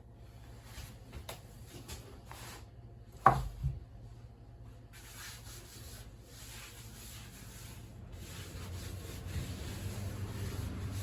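Soba dough being worked by hand on a wooden board: a few light clicks, one sharp wooden knock about three seconds in, then a soft, steady rubbing that grows gradually louder.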